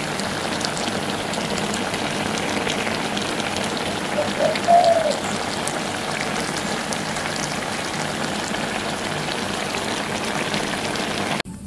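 Eel stir-fried in red curry paste sizzling and bubbling in a pan: a steady crackling hiss. A brief voice-like sound comes in about four and a half seconds in.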